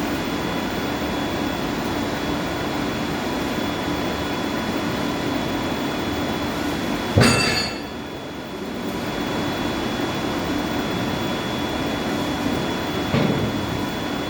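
Steady running noise of boiler-house machinery, a mechanical rumble with a constant hum and a high whine. About halfway through there is one sudden loud metallic clank, and a smaller knock comes near the end.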